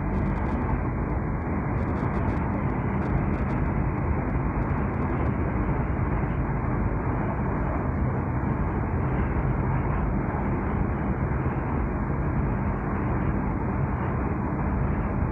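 Steady running noise of a moving train heard from inside the passenger carriage: an even low rumble of wheels on the track with a faint hum, muffled and unchanging, with no separate clicks or knocks.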